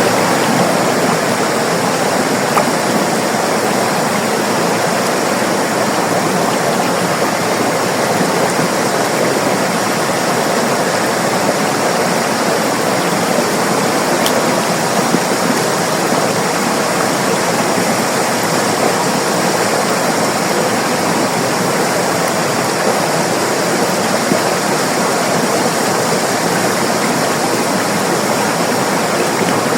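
River water rushing and splashing over rocks, a steady, even flow.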